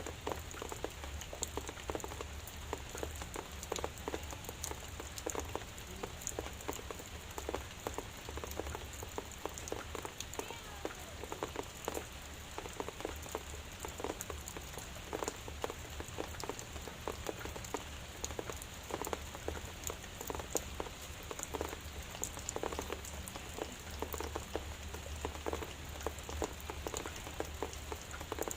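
Drizzle falling steadily, a dense patter of small drops ticking on a surface, over a low steady rumble.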